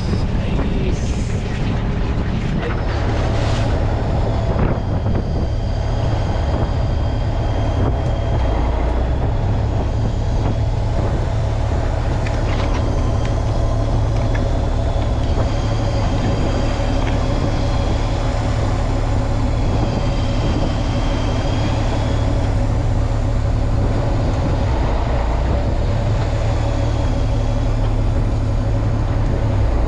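Fishing boat's engine running steadily, a continuous low drone, with a thin high whine that comes and goes.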